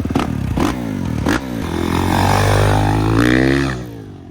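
Dirt bike engine revving and accelerating, its pitch rising and falling several times, with a few sharp clacks in the first second and a half. It drops away near the end.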